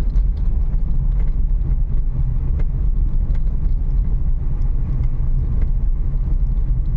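Inside a Renault Kiger's cabin on a rough, broken road: a steady low rumble of tyres and running gear, with scattered short knocks and rattles as it crawls over the poor surface.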